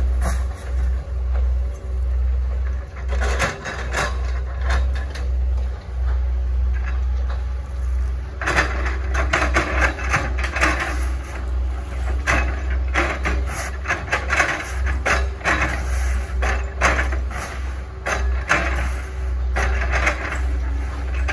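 Hitachi ZX110 excavator's diesel engine running steadily under load, with repeated cracking and crunching as oil palm trunk wood is crushed and chopped by the bucket, heavier from about eight seconds in.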